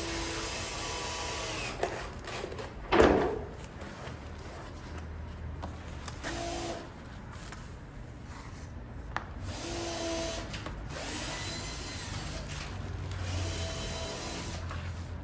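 Power drill run in short bursts against wood, each burst a brief low whine, amid rubbing and handling of wooden parts. A loud knock comes about three seconds in.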